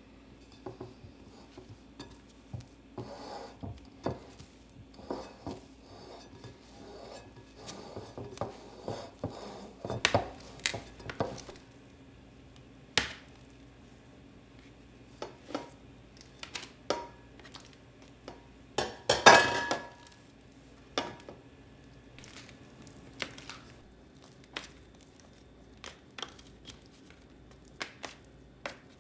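Dishes and kitchenware being handled and set down: scattered clinks and knocks, the loudest a ringing clatter about nineteen seconds in.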